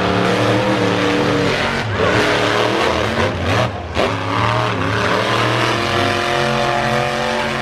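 Monster truck engine revving hard, its pitch rising and falling with the throttle. The sound drops out briefly about halfway through, then climbs again toward the end.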